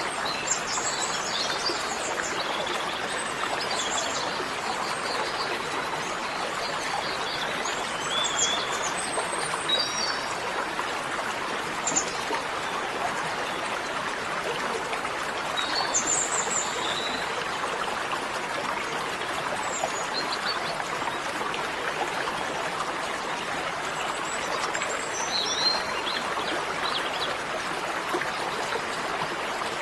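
Steady rushing of running water, like a stream, with birds chirping briefly now and then over it.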